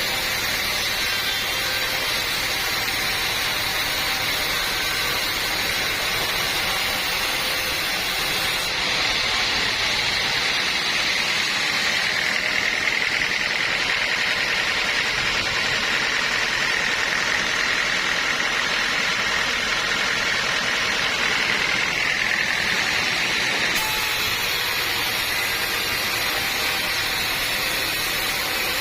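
Sawmill saw running steadily, with a high whine that grows stronger from about ten seconds in until about twenty-three seconds in.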